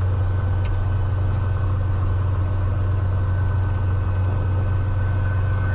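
Cessna 182 Skylane's piston engine idling on the ground: a steady low drone.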